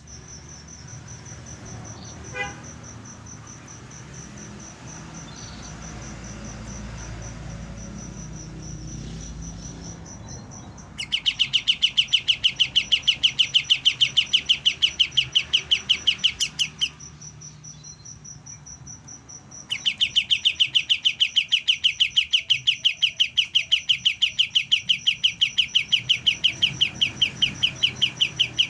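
Young kapas tembak bulbul calling in a fast, very regular trill of about eight notes a second, in two long bouts. It is just beginning to learn its song. The first bout starts about eleven seconds in, and the second follows after a short pause. A faint, steady high pulsing trill runs underneath.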